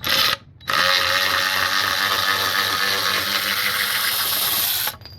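Byczone 3/8" cordless electric ratchet wrench running on a DeWalt 20V battery. It gives a brief burst, then its motor and ratchet head spin for about four seconds before stopping abruptly.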